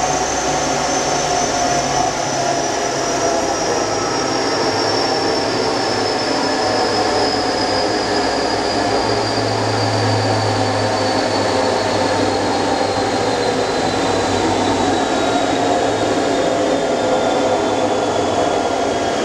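Turbocharged Mitsubishi 6A12 MIVEC V6 in a Lancer running steadily under way, with a constant rushing noise over a low rumble and a faint high whine that slowly falls in pitch.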